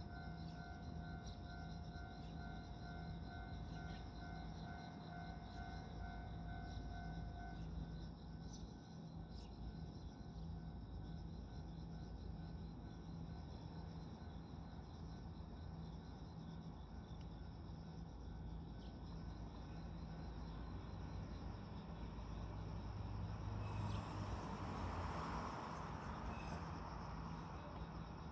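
Faint outdoor ambience of insects chirring steadily. A repeating pulsing two-note tone stops about eight seconds in. Near the end a vehicle passes briefly, a short rush of noise with a low hum.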